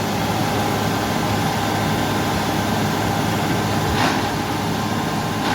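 Heavy truck engine running steadily, with a short burst of noise about four seconds in.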